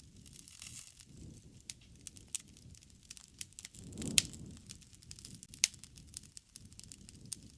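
Wood fire crackling: scattered sharp pops and snaps over a low rustle of burning flames, with one louder pop about four seconds in.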